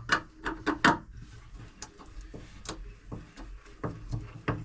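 Hand tools clicking and tapping while an engine mount bolt is worked loose: a quick run of sharp clicks in the first second, then scattered single clicks.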